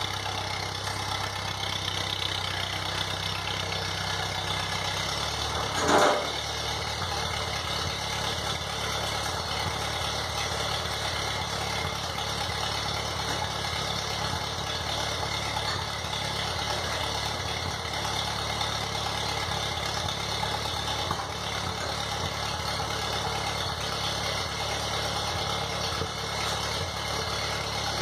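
The 1952 Ford 8N tractor's four-cylinder gas engine runs at a steady speed. There is one brief, loud noise about six seconds in.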